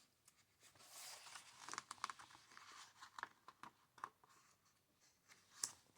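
Faint rustling of book pages being handled and turned: soft paper crinkles with small taps and clicks, a cluster in the first few seconds and one more near the end.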